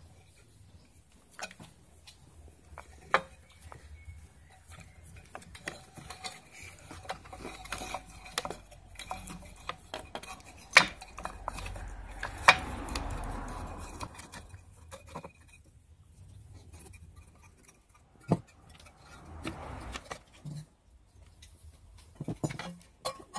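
Scattered light metallic clinks and knocks of metal parts being handled while a welder casing is put back together, with a few seconds of rubbing noise about halfway through.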